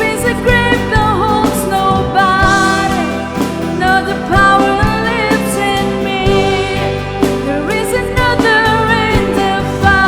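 Contemporary Christian worship song played by a band, with a sung melody over it.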